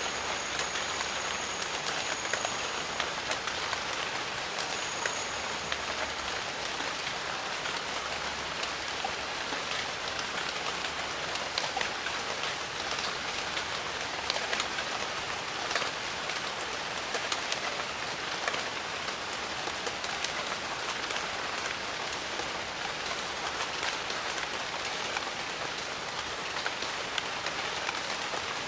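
Steady rain falling in a jungle: a continuous even hiss with many individual drops striking close by.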